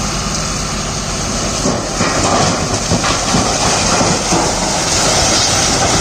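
Heavy diesel machine engine running under load, with a dense rattling clatter that grows from about two seconds in.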